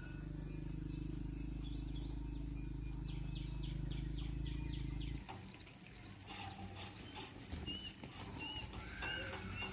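A steady low hum stops abruptly about five seconds in, leaving outdoor background with birds chirping in several short, repeated calls.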